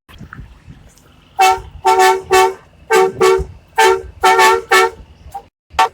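Vehicle horn honked in a rapid rhythmic series of about ten short blasts, beginning about a second and a half in.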